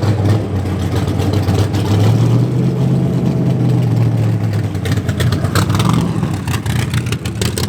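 Car engine running with a steady low rumble. In the second half a run of sharp crackles comes over it.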